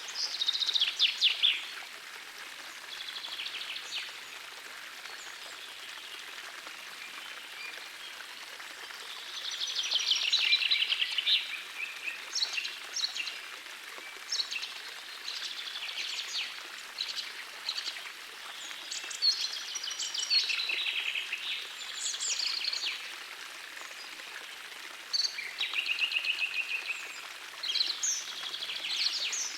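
Songbirds singing in repeated bursts of rapid trilled phrases, loudest about a second in and again around ten seconds in, over the steady rush of a gentle forest stream.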